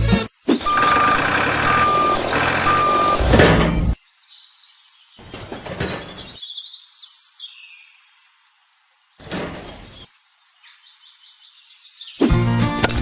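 A truck's engine running while its reversing alarm beeps three times, then both cut off suddenly about four seconds in. Faint high chirps follow in a quieter stretch, and background music starts near the end.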